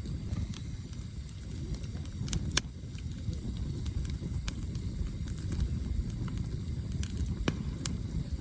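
Campfire burning, with a steady low rumble and scattered sharp crackles and pops of firewood, the loudest twice in quick succession a little over two seconds in.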